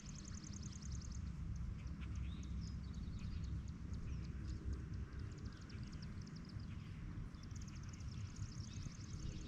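Birds calling outdoors: a rapid, evenly pulsed high trill that stops about a second in and comes back near the end, with short scattered chirps in between, over a steady low rumble.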